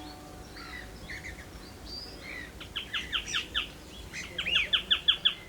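Woodland birdsong: scattered chirps, then a songbird singing two quick runs of repeated notes, one about halfway through and a louder one near the end.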